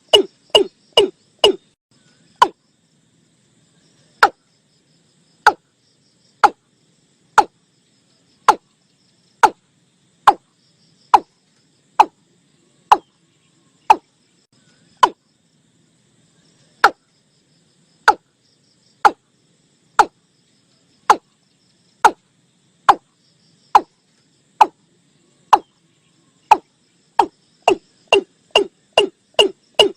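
Watercock calling: a long series of sharp, hollow, knocking notes, each dropping quickly in pitch. The notes come about two a second at the start, slow to about one a second, then quicken again near the end.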